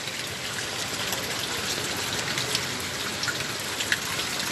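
Steady rain falling, with many single drops ticking close by and one sharper drop about four seconds in.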